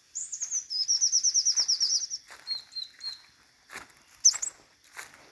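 Small songbird chirping: a rapid trill of high notes for about two seconds, then a short series of lower chirps and one more chirp a little later.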